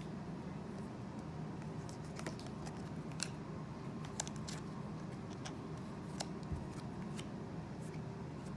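Trading cards being handled and shuffled through by hand: scattered soft clicks and ticks of card edges over a steady low hum.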